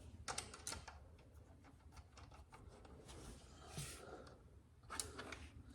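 Faint clicks and light handling noises of an axle slider part being fitted by hand, with a sharper click about five seconds in.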